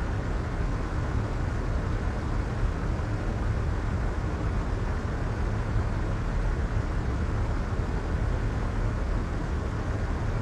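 Soft white noise: a steady, unbroken hiss weighted toward a low rumble and dull in the treble, with no change in level.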